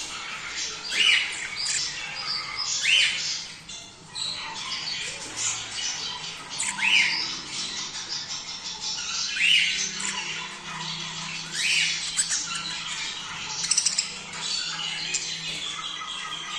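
A flock of budgerigars chattering and warbling, with a loud, quickly rising chirp about every two to three seconds, five in all.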